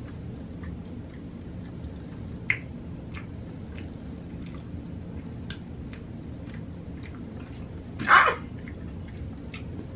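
Close-miked chewing and small mouth clicks from someone eating a cheesy chicken quesadilla, over a steady low hum. About eight seconds in comes one short, louder sound.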